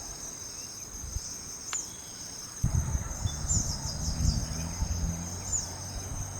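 Insects, crickets by the sound of it, trilling steadily and high, with short falling chirps about once a second. A low rumble comes in about two and a half seconds in.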